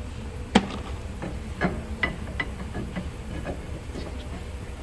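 Metal tools and parts clanking: one sharp clank about half a second in, then a string of lighter clinks and taps, over a steady low hum.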